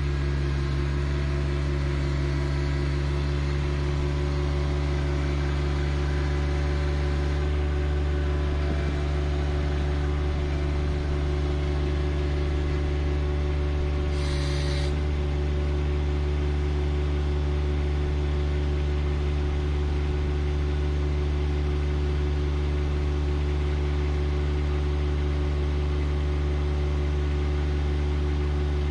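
John Deere 1025R compact tractor's three-cylinder diesel engine running at a steady speed, with a brief hiss about halfway through.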